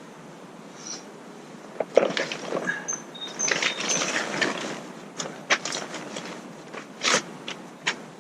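Rustling, clicking and knocking of camping gear being handled and unpacked, a busy run of small irregular noises starting about two seconds in, with a few sharper snaps near the end. Small birds chirp a few times in the background.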